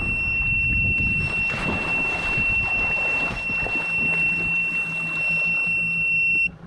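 Sea-Doo jet ski's warning buzzer sounding one steady high-pitched tone over engine and water rumble, cutting off abruptly near the end. It is typical of the watercraft's high-temperature alarm.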